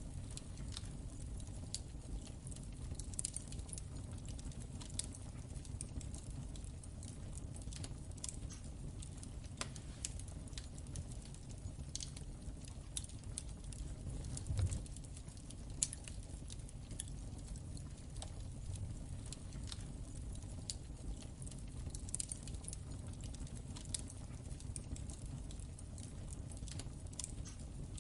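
Crackling wood fire in a fireplace: irregular small pops and snaps over a low steady rumble, with a louder pop about halfway through.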